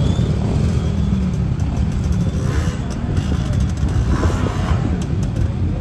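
Trials motorcycle engine running steadily at low revs close by, with a few light clicks in the second half.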